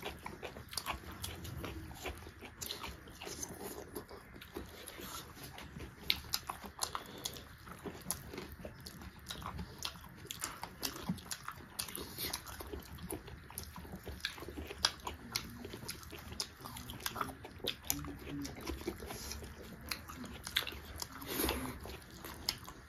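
Two people biting and chewing pork and rice eaten by hand, with many sharp, irregular mouth clicks throughout.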